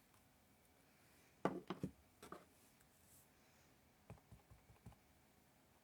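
Quiet room with a few soft taps and clicks of a rubber stamp and ink pad being handled on a craft table: a cluster about a second and a half in, and a few fainter ticks near the end.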